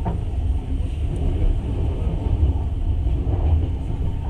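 Passenger train in motion heard from inside the carriage: a steady low rumble of the running gear on the rails.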